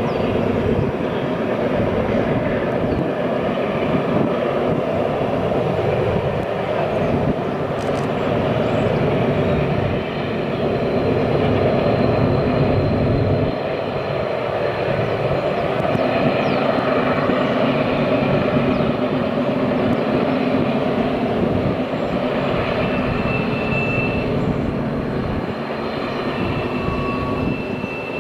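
A long train running past, a steady heavy rumble and rattle of its wagons, with a faint high whine near the end.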